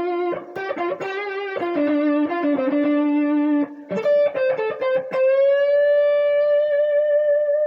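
Electric guitar playing a blues lick: a quick run of repeated picked notes moving between a few pitches, then about five seconds in a note bent up in pitch and held, ringing on with a slight vibrato.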